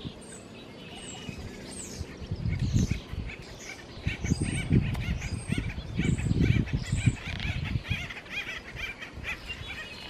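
Small birds calling: thin high whistled notes and a fast run of short chirps, thickening over the second half. Under them is an irregular low rumble that peaks several times and is the loudest part.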